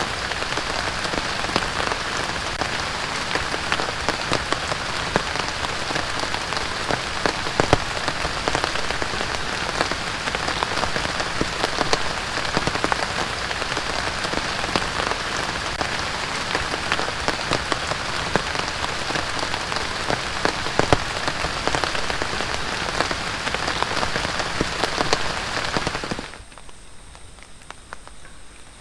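Heavy rain falling steadily, a dense patter with many individual drops striking close by. It cuts off suddenly a few seconds before the end, leaving a much quieter background.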